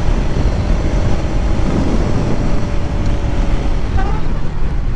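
Bajaj Pulsar NS200's single-cylinder engine running steadily while riding at speed, with wind and road noise over it.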